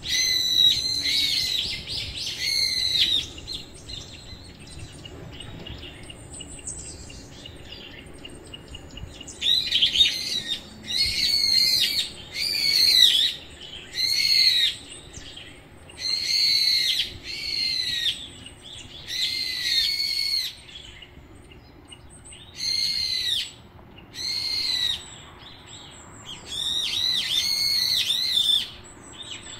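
A bird calling loudly and repeatedly, each call about a second long with a rise and fall in pitch, coming in runs of several calls with short pauses between runs.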